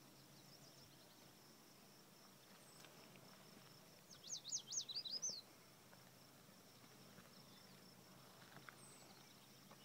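A songbird sings one quick phrase of about eight sharp, down-slurred notes about four seconds in, over a faint, steady, high-pitched trill of insects. A few single faint bird chirps sound elsewhere.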